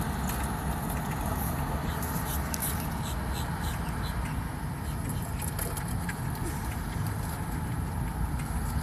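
Steady low rumble of motor vehicle engines, with short faint high ticks now and then.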